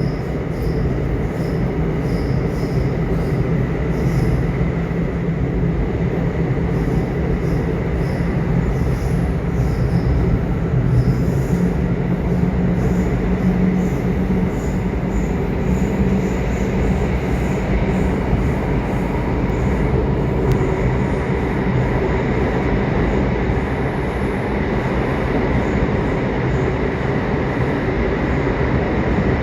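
Subway train running: a steady loud rumble of wheels and motors on the track, with a faint high whine and some wheel squeal.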